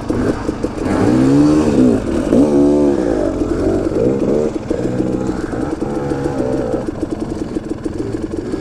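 Dirt bike engine revving in repeated throttle surges, its pitch rising and falling over and over as the bike is worked over rocky ground. The surges are loudest in the first few seconds, then settle into shorter blips.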